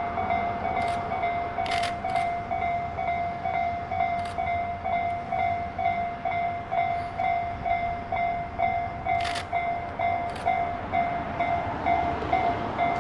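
Railway sounds on the Tobu line around the SL Taiju train: a ringing tone repeating quickly and evenly throughout, over steady train noise, with a few sharp clicks scattered through it.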